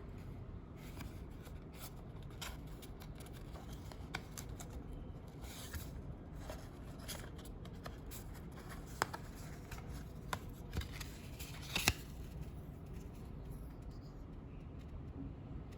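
Packaging being handled and opened by hand: scattered small clicks, taps and rustles, with a few sharper clicks a little past the middle. A steady low hum lies underneath.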